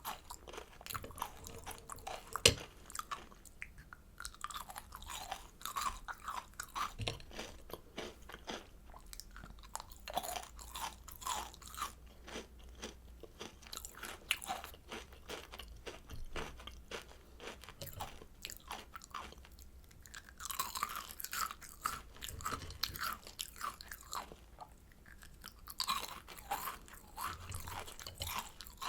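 Crunching and chewing of kohakuto, Japanese crystal candy with a crisp crystallized sugar shell over soft agar jelly: a steady run of small, crisp crunches, with one sharp, louder crack about two and a half seconds in.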